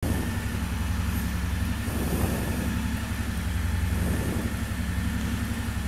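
Royal Enfield Continental GT 650's 648 cc parallel-twin engine idling steadily through the stock exhaust, with an even low pulsing.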